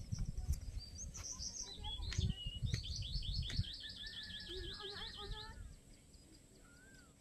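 Small songbird chirping, then singing a fast trill of repeated high notes for about three seconds in the middle, which stops short about two seconds before the end. A low rumble lies underneath during the first half.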